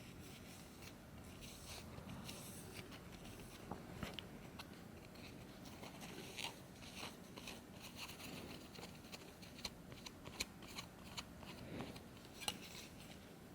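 Clear plastic model part rubbed by hand with a medium-grit polishing cloth: faint scuffing with scattered small clicks.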